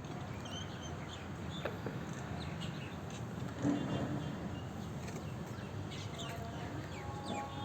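Small birds chirping: many short, high calls scattered throughout, over a steady low background hum.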